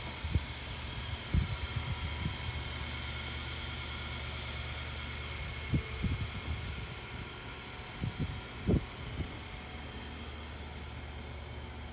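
Infiniti QX56's 5.6-litre V8 idling with a steady low hum, with a few dull low thumps, the loudest about a second and a half in and near nine seconds in.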